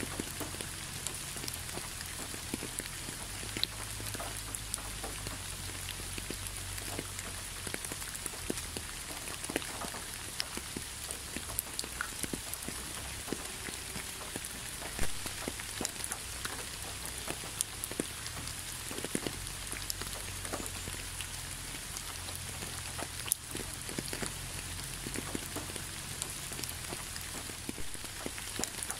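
Steady rain: an even hiss with many separate drops ticking sharply on a surface, one louder drop about halfway through.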